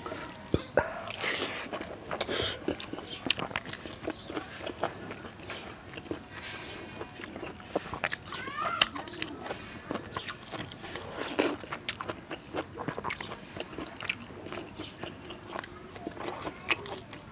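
Close-miked chewing and lip-smacking of a person eating rice with dal and fried vegetables, with frequent short wet clicks and occasional crunches.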